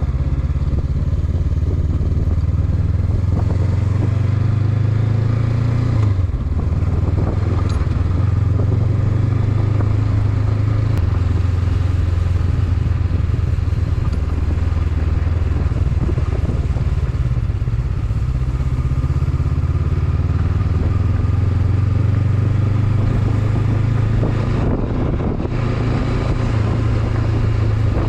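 Honda CB500X's parallel-twin engine running steadily while riding, its note dipping briefly as the throttle eases about six seconds in and again near the end.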